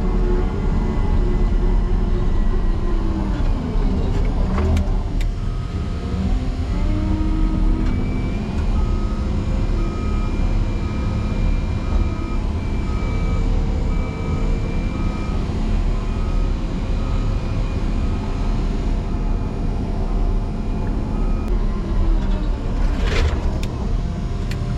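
Motor grader's diesel engine working hard while ramming a deep snow drift, its pitch sagging about three seconds in as it takes the load. A sharp knock sounds about five seconds in and another near the end as the blade hits the drift, and an even series of beeps runs through the middle.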